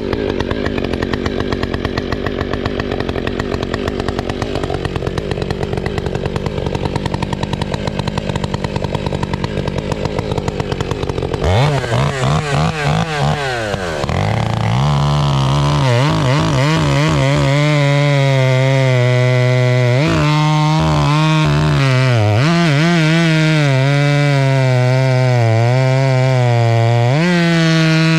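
An engine running with a rough, pulsing note, then from about eleven seconds in revving up and holding a high, steady pitch that sags briefly several times and recovers, the way an engine does when working under load.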